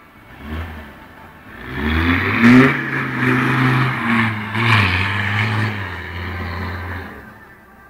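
Audi 2.5 TDI quattro's turbodiesel engine revving as the car spins its wheels through snow. The revs climb about two seconds in, rise and fall for several seconds, then die away near the end.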